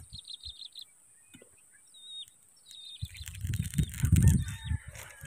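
Small birds calling in the open: a quick run of high repeated notes at the start, then short high chirps. From about three seconds in, a louder low rumbling noise on the microphone joins them.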